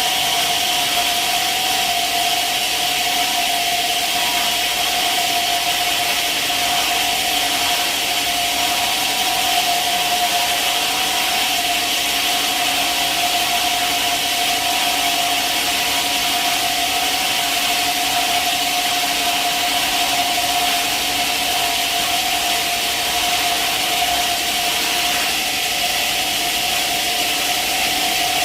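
Sawmill saw cutting steadily through a log: a constant cutting noise with a steady whine that holds unchanged throughout.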